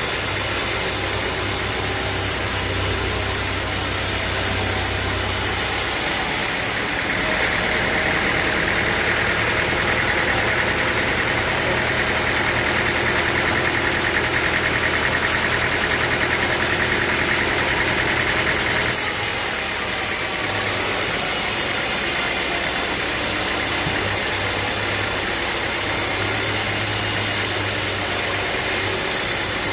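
Sawmill machinery running steadily with a low engine-like hum. From about six seconds in, a harsher, higher sound joins it and then stops abruptly about nineteen seconds in.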